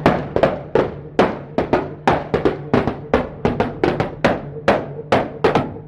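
A rapid, irregular string of sharp bangs and pops, about four or five a second, over a low steady hum.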